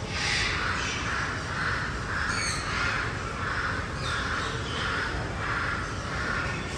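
A bird giving a long series of harsh, raspy calls, about two a second, with a brief high chirp from another bird about two and a half seconds in.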